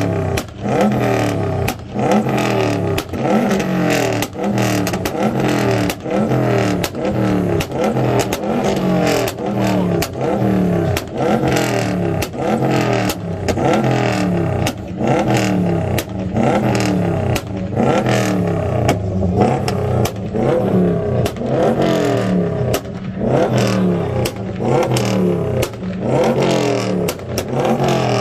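Car engine with a very loud exhaust, revved over and over in quick blips, about one to two a second, with sharp cracks between the revs.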